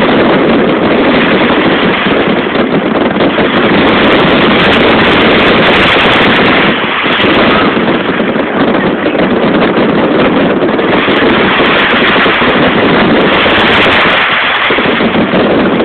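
Fireworks going off in a loud, continuous barrage of rapid bangs and crackles.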